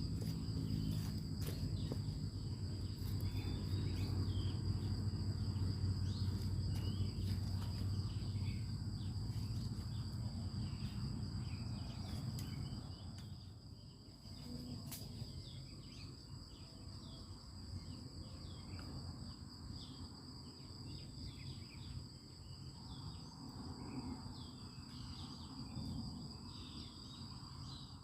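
Outdoor ambience of insects droning steadily and high-pitched, with scattered faint bird chirps. A low rumble lies under it, louder in the first half and dropping off about halfway through.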